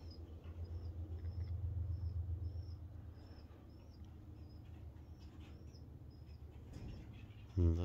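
A small bird chirping over and over, one short high chirp about twice a second, over a low rumble that fades after about three seconds.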